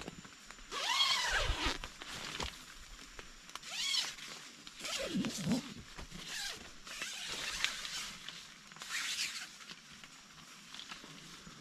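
About six short bursts of rustling and scraping at irregular intervals, each under a second long: the sound of gear or fabric being handled.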